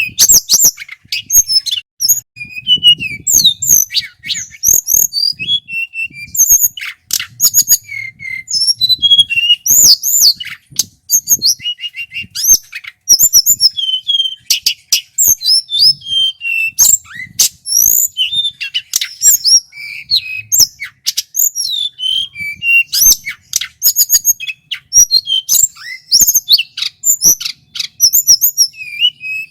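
Male tledekan gunung, a blue flycatcher, singing without pause: loud, clear, rapid high whistled phrases, trills and sliding notes, varied from phrase to phrase, with sharp clicking notes mixed in.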